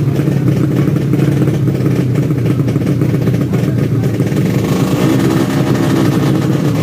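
Tuned four-stroke underbone racing motorcycle engines running and revving, with more high-pitched engine sound from about five seconds in.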